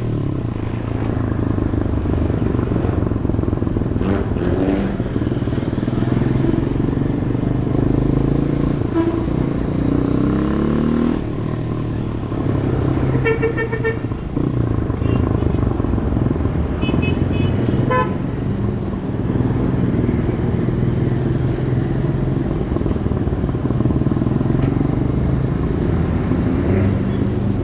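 Stock exhaust of a Demak DTM 150 motorcycle running in city traffic, its engine note rising and falling several times with the throttle and gear changes. A vehicle horn sounds briefly twice, about halfway through and again a few seconds later.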